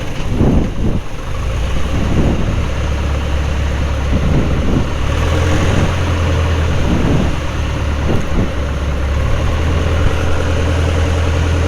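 Carbon Cub light aircraft's engine running steadily at low power after touchdown, a constant low drone as the plane rolls out on the runway.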